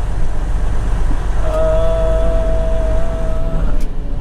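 Steady low engine rumble inside the truck cab. About one and a half seconds in, a horn sounds one steady two-note chord for about two seconds, then stops.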